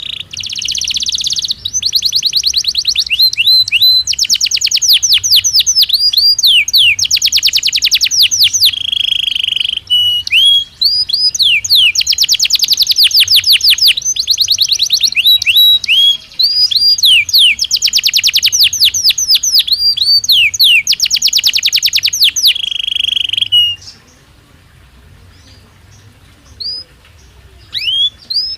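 Belgian canary singing: long, rapid trills and rolling phrases of fast rising and falling notes. The song breaks off about 24 seconds in, leaving only a few short scattered notes near the end.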